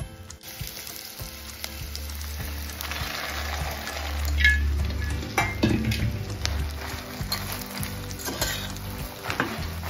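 Makhana (fox nuts) sizzling in hot oil in a steel pan, stirred with a metal slotted spatula that scrapes and clicks against the pan now and then.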